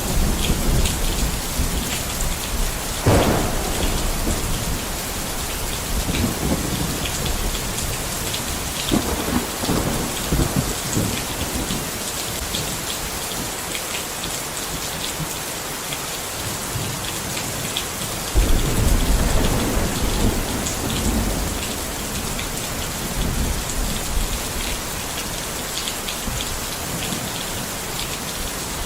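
Steady rain falling, with thunder: a sharp clap about three seconds in, softer rolls after it, and a deep rumble that starts suddenly a little past halfway and fades over a few seconds.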